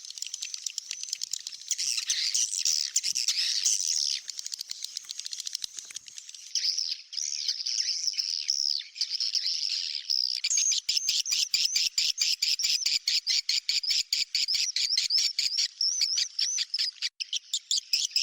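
Edible-nest swiftlet calls played as a swiftlet-house lure call: high, fast twittering chirps. About ten seconds in they turn into a rapid, dense chittering trill.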